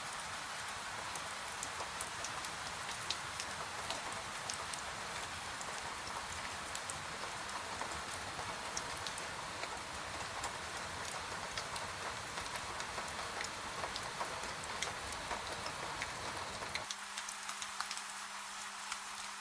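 Steady gentle rain falling, with many individual drops ticking through it. About 17 seconds in, the deeper part of the rain sound drops away abruptly, leaving a thinner hiss over a faint low hum.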